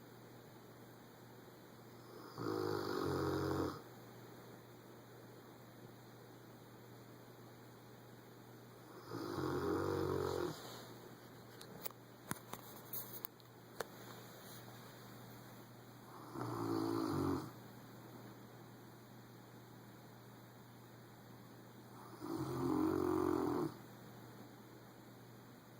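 A Rottweiler snoring loudly in its sleep: four long snores, each about a second and a half, coming about every six and a half seconds. A few small clicks fall between the second and third snores.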